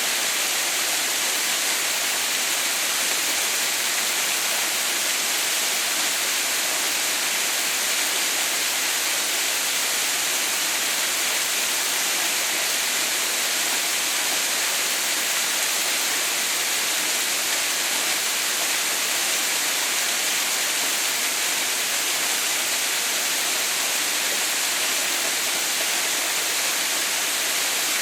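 Steady, unbroken rush of water falling at a small mountain waterfall, a constant hiss strongest in the upper range.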